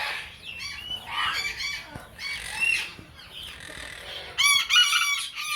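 Parrots squawking and chattering in a string of short, high calls, with a loud burst of squawks about four and a half seconds in.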